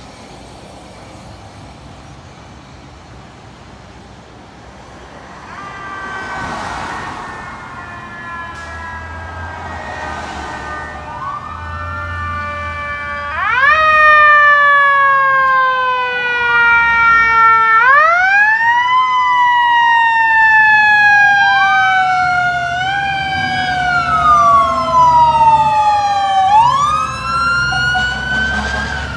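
Electronic sirens of FDNY fire apparatus responding: faint at first and growing loud about halfway through, with repeated sweeps that jump up sharply in pitch and slide slowly down, over a low engine rumble.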